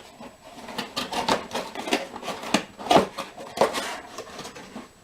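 Styrofoam packing being rubbed and scraped as a coffee mug is forced out of it: an irregular run of scrapes and short knocks, loudest about three seconds in.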